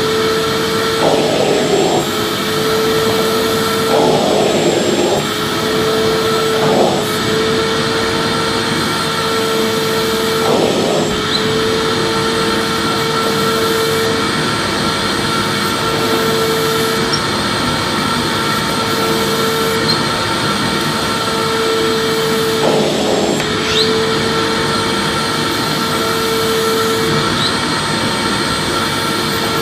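Vacuum cleaner running steadily: a dense rushing hiss with a constant motor whine. A humming tone cuts in and out every second or two, and a few brief louder rustles come through.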